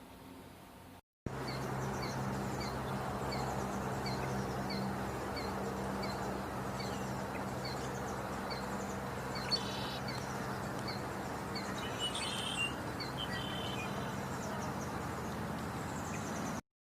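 A small bird repeating a short, high chirp about three times every two seconds, with a few other bird calls after the middle, over a steady background rush and low hum. The sound cuts in about a second in and cuts off suddenly near the end.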